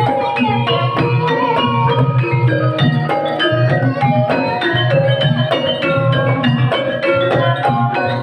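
Banyumasan gamelan music for an ebeg horse dance: quick, dense melodies on mallet-struck pitched percussion over a steady, repeating drum pattern.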